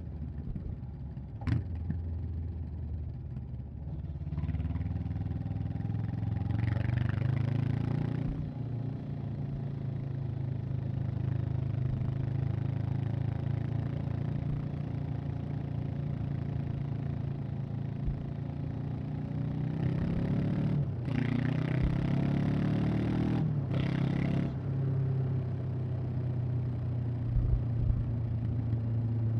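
Honda CB500X's parallel-twin engine and exhaust under way. The engine pitch climbs from about four seconds in, settles into a steady cruise, then climbs again with short breaks near the end, where the rider shifts gear. There is a single sharp click early on.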